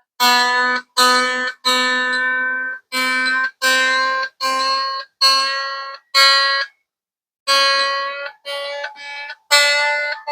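Epiphone Les Paul electric guitar being tuned: single strings plucked one at a time, about a dozen notes, each damped after half a second or so. There is a brief pause near the middle, after which the notes move to a higher string.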